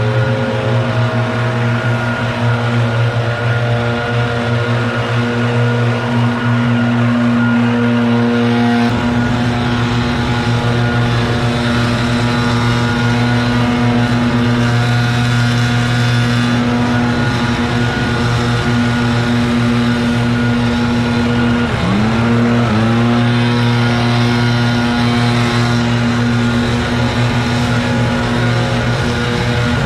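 A small engine running steadily at high speed, its pitch dipping sharply and climbing back about 22 seconds in. A lower rumble joins about 9 seconds in.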